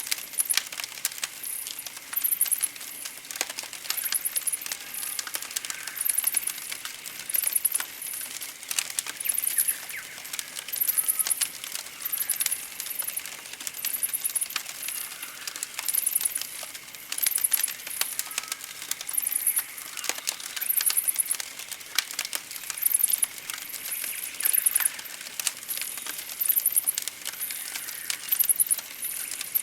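Campfire crackling with frequent sharp pops, under a very high, thin chirping trill that repeats about once a second throughout.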